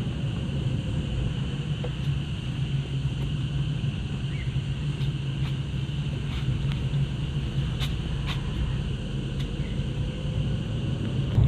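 A vehicle running steadily along a road, a low engine hum and rumble, with a steady high drone of forest insects over it.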